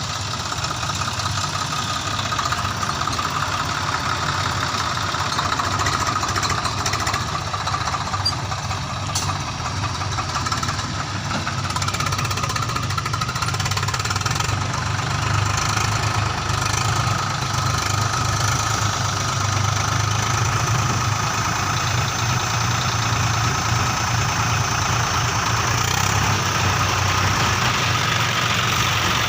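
Heavy diesel engine running steadily under work, growing slightly louder toward the end.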